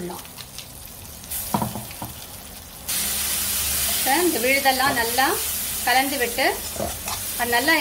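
Coarse rasam spice paste frying in hot oil with popped mustard seeds in a kadai, stirred with a spatula. It sizzles faintly at first, then jumps to a loud, steady sizzle about three seconds in as the paste is spread into the oil.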